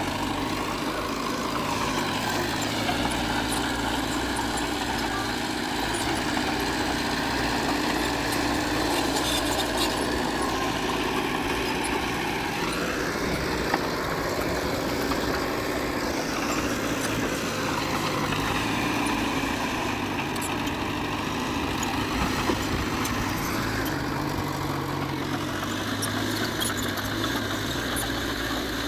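Diesel engine of heavy earthmoving machinery running under load, its pitch rising and falling several times as the throttle changes, with faint clanking over it.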